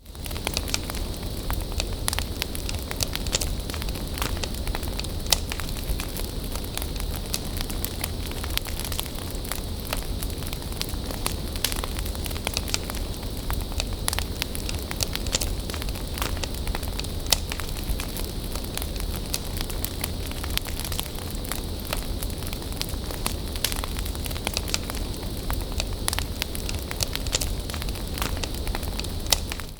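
Wood bonfire burning, with constant crackling and frequent sharp pops over a low, steady rumble.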